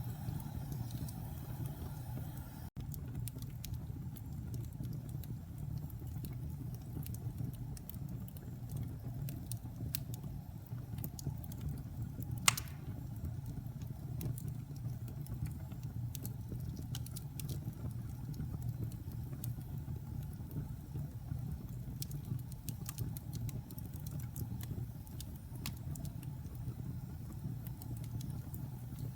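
Wood fire burning in a fireplace: a steady low rumble of flames with scattered small crackles, and one sharp pop about twelve seconds in.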